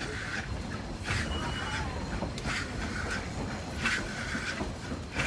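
Narrow gauge steam train running, with a regular noisy burst about every second and a half over a steady low rumble.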